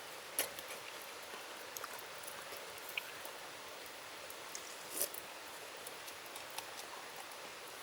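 Steady rushing hiss of a stream running, with scattered small clicks and two louder sharp snaps, one about half a second in and one about five seconds in.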